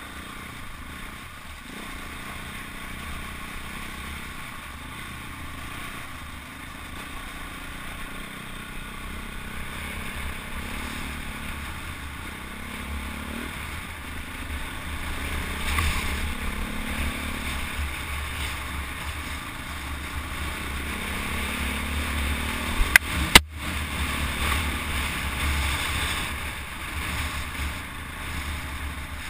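KTM 400 EXC enduro bike's single-cylinder four-stroke engine running under way, its note rising and falling with the throttle, over a steady wind rumble on a helmet camera's microphone. Two sharp knocks come about three quarters of the way through.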